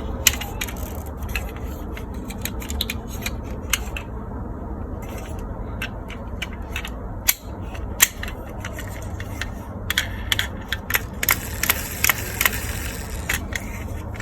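Plastic toys clicking and clattering as they are handled, in irregular sharp clicks that grow busier about ten seconds in, over a low steady hum.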